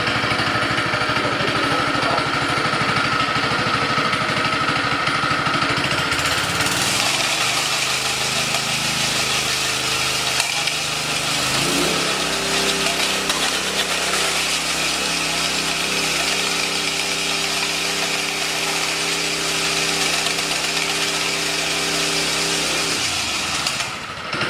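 Honda GX160 single-cylinder engine of a 24-inch edge power trowel running just after starting. About seven seconds in it speeds up over several seconds to a steady higher speed, then drops back near the end.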